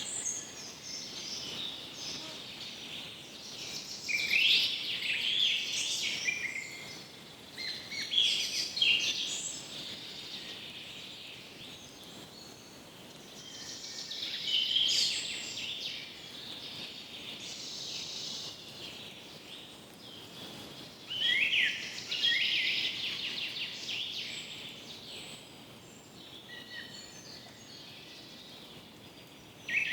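Birds calling and chirping in repeated bursts of quick, high notes, over a faint steady background hiss.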